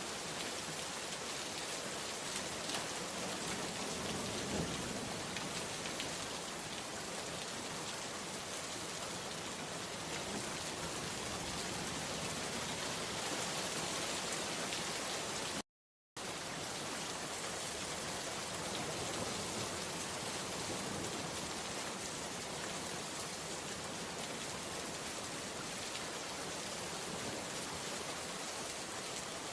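Steady rain, an even hiss of falling drops, with a brief drop to total silence for about half a second midway through.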